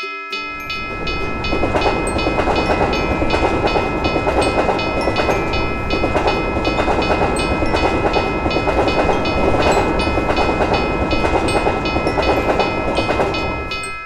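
A train passing through a railroad crossing: a dense rumble with clickety-clack that swells up about half a second in and stops just before the end. The crossing bell keeps dinging about three times a second throughout.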